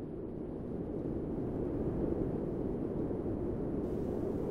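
Steady low rumble of outdoor background noise with no distinct events; it neither rises nor falls.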